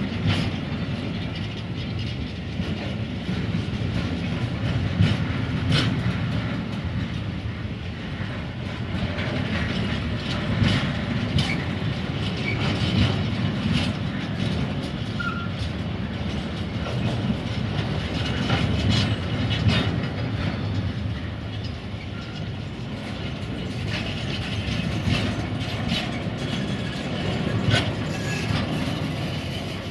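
Empty intermodal container flat wagons of a freight train rolling past close by: a steady rumble of wheels on rail, broken by irregular clicks and knocks as the wheels pass over rail joints.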